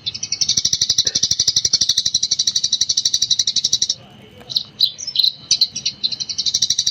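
Eurasian tree sparrow (burung gereja) chirping in a rapid, continuous 'gecor' chatter of many chirps a second. It breaks off about four seconds in for a few scattered single chirps, then resumes near the end.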